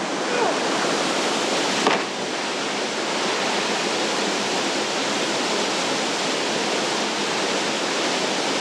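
Steady rushing of water, an even, unbroken roar, with one short sharp knock about two seconds in.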